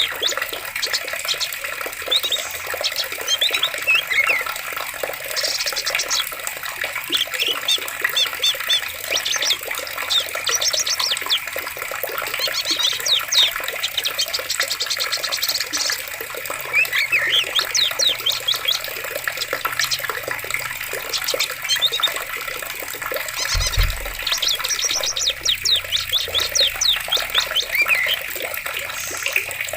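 Running water, a stream or small waterfall, with many birds chirping and trilling over it. A brief low thump comes a little after the middle.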